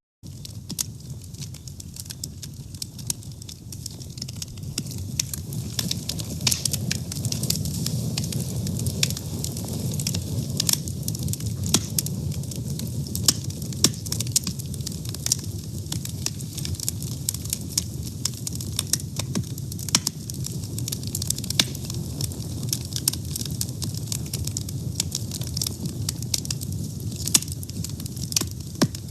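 Fire burning, with frequent irregular crackles and sharp pops over a steady low rumble.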